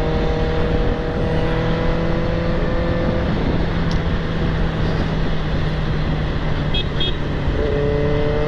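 Benelli 600 TNT's inline-four engine cruising on the highway under heavy wind rumble, its pitch creeping slowly up. About three seconds in, the engine tone drops away under the wind; it comes back near the end.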